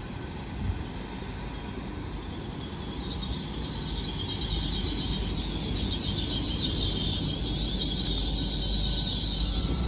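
Train approaching, its low rumble and a high hiss growing steadily louder.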